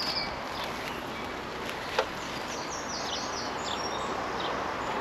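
Honeybees humming steadily around an open hive, with bird chirps in the background and one sharp click about two seconds in.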